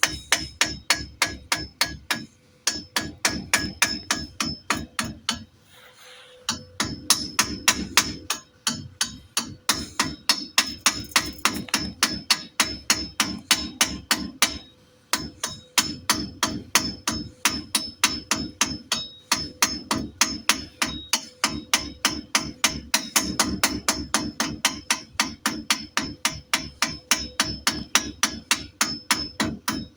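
Hammer rapidly striking steel, about four blows a second with a metallic ring, in runs broken by brief pauses: knocking the slag off a fresh stick-weld bead so the weld can be inspected.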